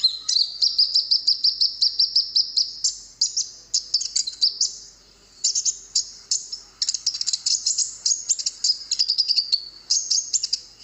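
Konin songbird singing: fast, high chirping trills in phrases of rapid notes, broken by a couple of short pauses.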